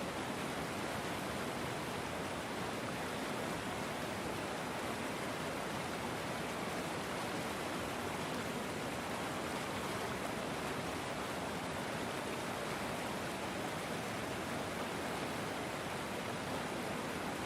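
River water flowing, a steady, even rush with no distinct splashes or changes.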